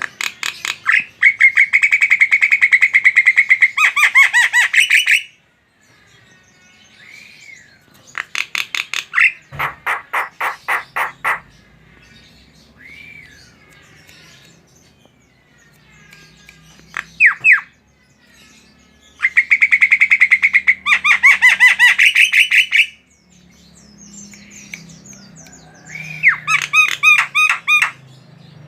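A jalak (starling) sings in loud bursts of rapid repeated chattering notes. There are about five bursts, each one to four seconds long, with short single whistles between them.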